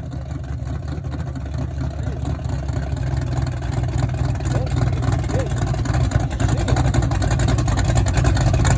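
Small-block Chevy 377 V8 in a Nova running cold, with a steady, pulsing low exhaust note that grows gradually louder.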